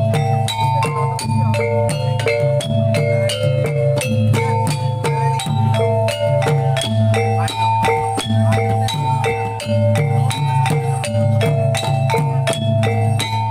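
Reog accompaniment music in gamelan style: struck metal mallet instruments play a quick, repeating melody over a steady low drone, loud and unbroken.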